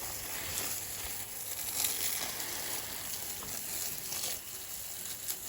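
Water spraying from a garden hose onto plants and soil: a steady hiss with a few faint patters.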